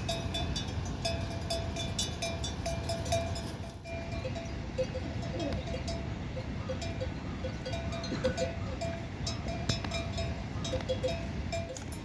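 Bells on livestock clanking irregularly as the animals move, two bells of different pitch ringing over a steady low background noise.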